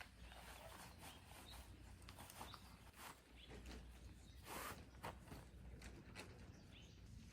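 Near silence: faint outdoor ambience with scattered small clicks and a brief rustle about four and a half seconds in.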